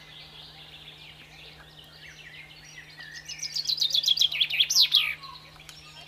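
High-pitched chirps and squeaks of a bat. They build into a fast series of sharply falling chirps between about three and five seconds in.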